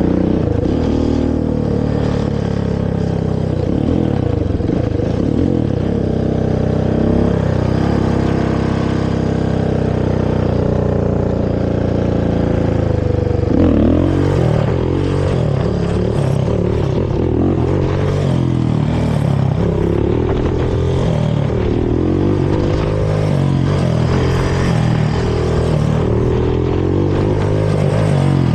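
Carbureted Honda TRX450 quad's single-cylinder four-stroke engine through its stock exhaust, running at a fairly steady pace at first. About halfway through it begins revving up and down repeatedly, with the throttle opened and closed again and again.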